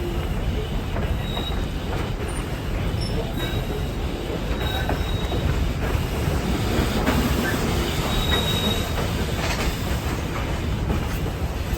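Heritage train running on the rails: a steady rumble of wheels on track, with short high-pitched wheel squeals recurring on and off.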